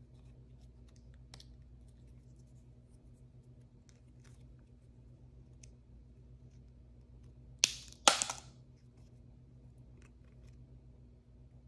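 Hands handling blind-bag toy packaging: faint crinkles and light ticks, then two sharp, loud sounds about half a second apart around eight seconds in, the second trailing off in a short rough rustle.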